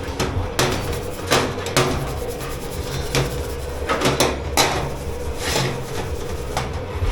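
Kitchenware being handled in a dish pit: irregular knocks, clunks and scrapes over a steady low machine hum.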